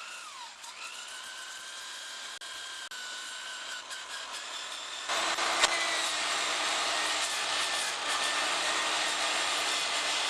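Electric drill spinning a Roloc surface-conditioning disc to strip rust from a steel bicycle frame. The motor's whine dips near the start as the disc bites, then recovers. From about five seconds in, the grinding gets louder.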